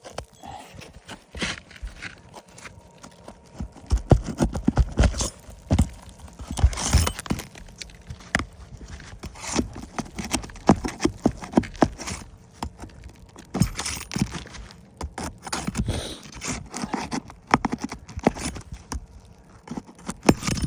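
Irregular knocks, taps and scrapes from work on a shingle roof, with clusters of sharp knocks rather than a steady hammering rhythm.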